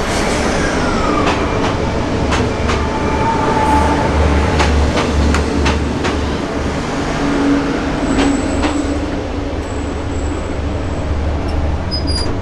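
Inside a sleeper train carriage: a steady, low, pulsing rumble of running machinery, with scattered sharp clicks and knocks throughout.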